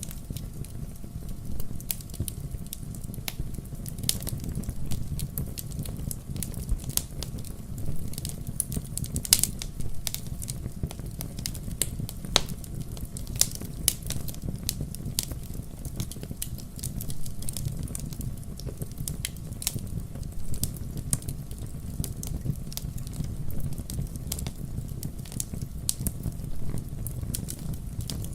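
Firewood burning: frequent irregular crackles and sharp pops over a low, steady rumble.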